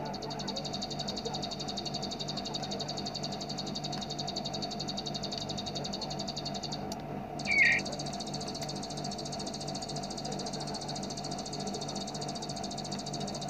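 Bar-winged prinia (ciblek) giving its rapid, machine-gun-like 'bren' rattle, a long, very fast, even, high buzzing trill. It breaks off briefly about seven seconds in, where a single loud, lower chirp sounds, then resumes. A steady low hum runs underneath.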